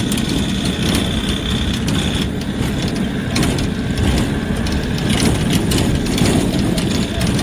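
An engine running with a continuous mechanical rattle and clatter.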